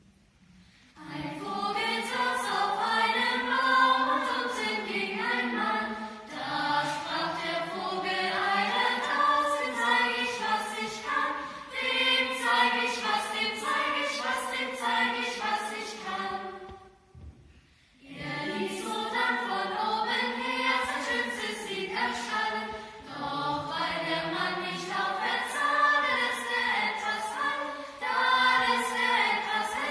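Youth choir singing a song in unison. The singing starts about a second in, stops for about a second around the middle, then goes on.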